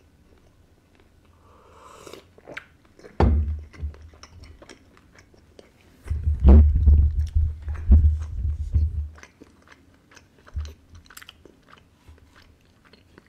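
Close-up chewing of a Snickers bar, with small wet mouth clicks. From about six to nine seconds, loud low thumping and rubbing as a hand handles things right at the microphone.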